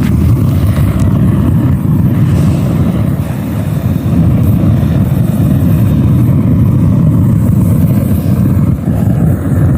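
Loud, steady low rumble of wind buffeting the microphone outdoors.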